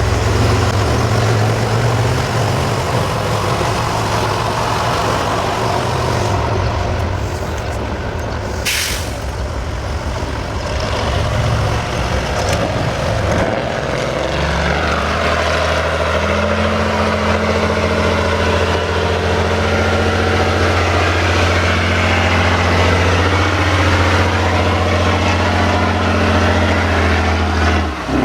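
Subaru car's flat-four boxer engine running on an off-road course, with a short sharp hiss about nine seconds in. From about halfway through, the engine settles into a steady low drone.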